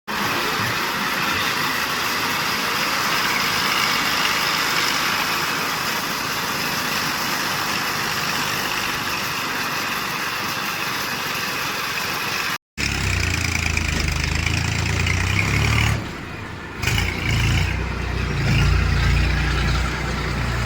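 Heavy diesel machinery engines running, in two cut-together clips: first a steady hissing engine noise with little low end, then from about 13 s in a close, deep diesel engine sound that dips briefly a few seconds later.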